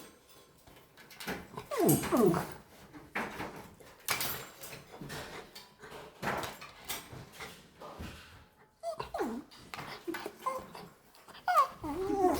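A pet dog whining in short whimpers that fall in pitch, three or four times, with scattered sharp clicks between them.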